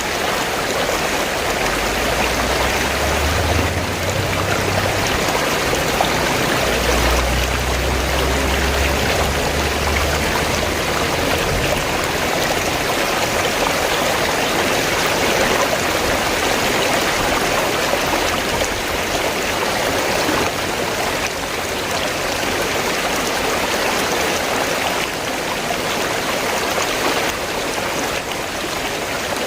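River water flowing steadily, a dense even rush. A low rumble comes and goes during the first third.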